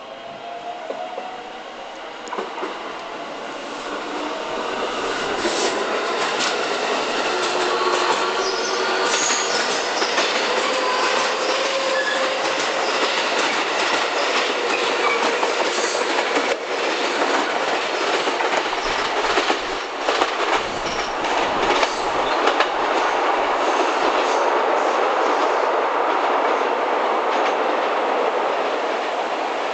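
JR West electric commuter train running through the station, getting louder over the first few seconds. Its wheels clack over rail joints through the middle, with some wheel squeal, giving way to a smoother rumble near the end.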